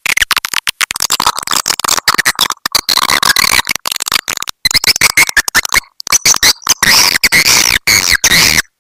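Swiftlet lure call recording: dense, rapid chirping and twittering of swiftlets, broken up by many abrupt brief gaps.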